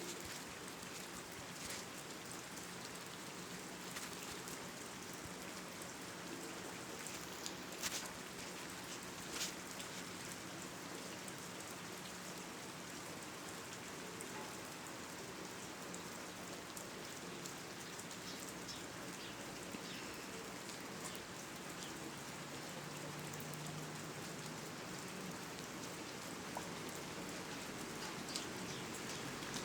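A steady, even hiss, like rain or background noise, with a few faint clicks.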